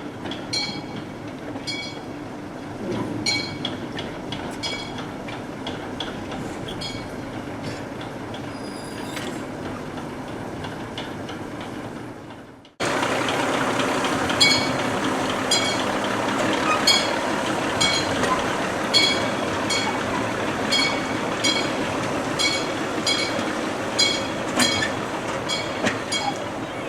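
Railway carriage wheels running over rail joints in a repeated clickety-clack of metallic clicks over a steady rumble. The sound cuts off abruptly just under halfway through and comes back louder.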